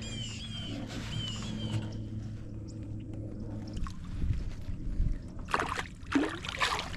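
A bird chirps a quick repeated call early on, then water sloshes and splashes against a canoe, with low knocks on the hull and a few louder splashy bursts near the end.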